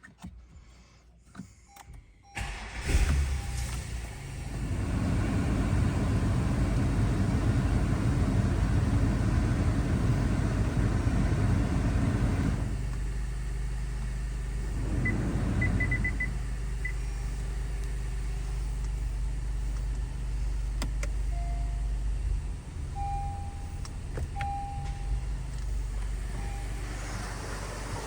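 Acura TLX 3.5-litre V6 cranking and catching about three seconds in, then running at a raised idle that drops to a lower, steady idle about twelve seconds in. A few short electronic chime beeps sound partway through.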